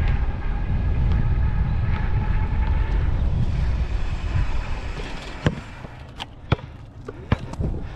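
Wind buffeting the microphone and the steady whine of the electric bike's motor while riding. The rumble eases off about five seconds in, and several sharp clicks and knocks follow near the end.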